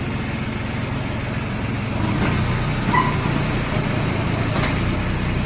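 Tractor diesel engine running steadily at idle, with a short high-pitched chirp about three seconds in and a faint click near the end.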